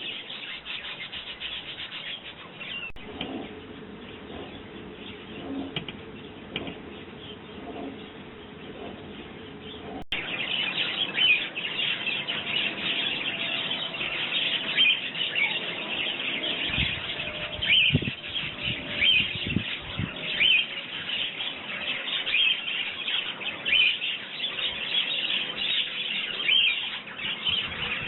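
Sparrows chirping busily, a dense overlapping chatter that gets louder and fuller about ten seconds in. A few soft low thumps sound in the middle.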